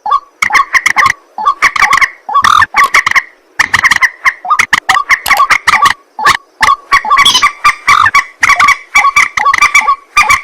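White-breasted waterhen (ruak-ruak) calling: loud, harsh croaking notes repeated rapidly, several a second and without a break, from two birds.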